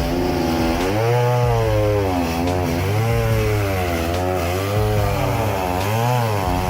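Chainsaw engine running with its pitch swinging up and down about once a second, revving and easing off.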